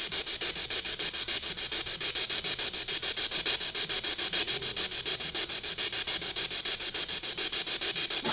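Spirit box sweeping through radio stations, giving a steady hiss of static chopped into rapid, evenly spaced pulses.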